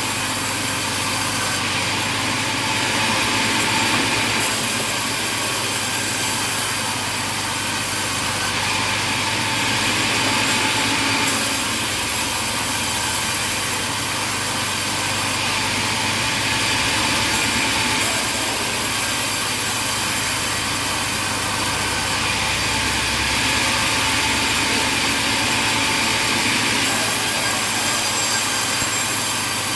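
Sawmill machinery running with steady mechanical noise and no distinct strokes. The sound shifts abruptly every few seconds.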